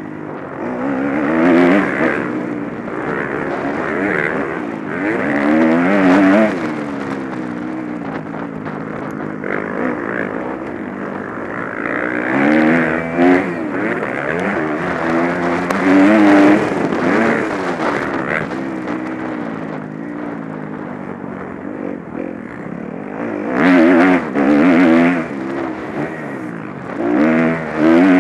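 Motocross bike engines revving up and down over and over, several at once at different pitches, with repeated louder surges as riders open the throttle.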